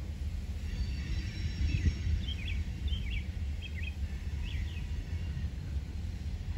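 A bird chirping a quick run of short, falling notes over a steady low outdoor rumble.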